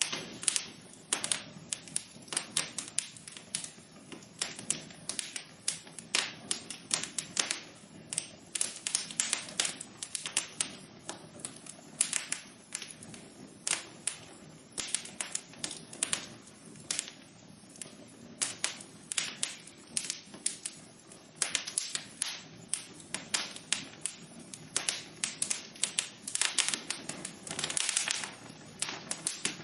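Wood fire burning in a fireplace, crackling with many irregular sharp pops and snaps over a low steady hiss.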